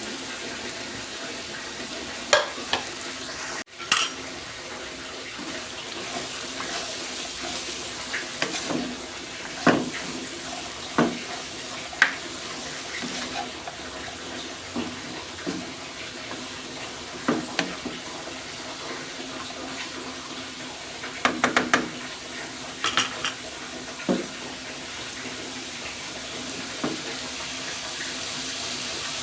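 Tap water running into a kitchen sink, with scattered clinks and knocks of dishes and utensils and a quick run of clatter about three-quarters of the way through.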